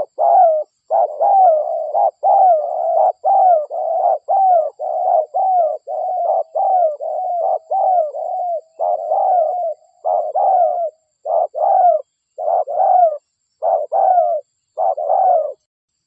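Spotted dove (derkuku) cooing persistently, a rapid run of about twenty short coos, each bending in pitch, that starts suddenly and stops shortly before the end.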